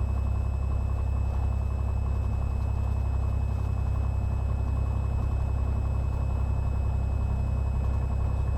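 Cessna 182's single piston engine and propeller running at a steady, unchanging power, heard from inside the cabin as a constant low drone.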